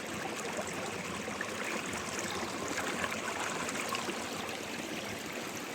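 Small freshwater stream running steadily, a continuous rush with light babbling.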